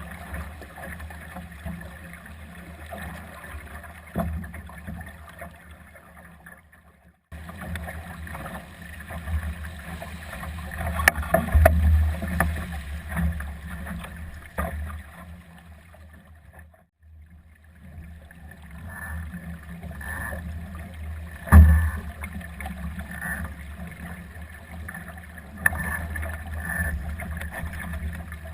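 Wind buffeting the microphone and water rushing past a Solo sailing dinghy's hull in gusty wind, with a few sharp knocks from the boat, the loudest about 21 seconds in.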